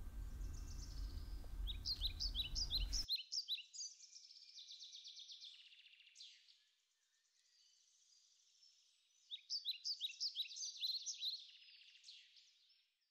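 A songbird singing in rapid runs of high chirps, once about a second and a half in and again near the end, with softer trills between. A faint low hum cuts off suddenly about three seconds in.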